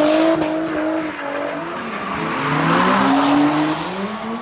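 A car engine revving hard with tires squealing and skidding, as in a burnout or donuts. The engine pitch sags about a second in and climbs again in the second half.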